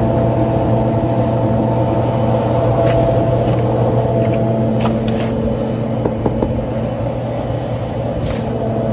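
Commercial HVAC unit running steadily, its blower and fans giving a continuous hum with a few steady tones and a few faint clicks; the tones shift a little about halfway through.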